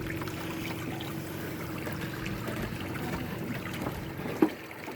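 Boat under way, with water trickling and sloshing and a faint steady hum beneath. A single sharp knock sounds near the end.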